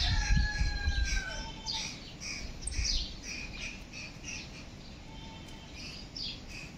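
Birds chirping and squawking in many short, repeated calls, with a held whistling note in the first second and a half. Low rumbles come in the first three seconds.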